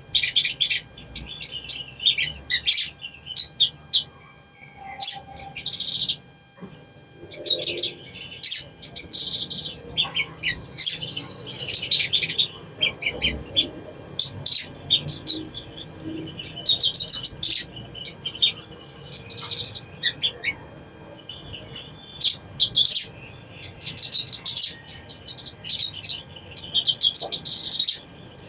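Sogon (spiderhunter) singing: rapid, high-pitched chattering phrases in repeated bursts of a second or two, with short pauses between them.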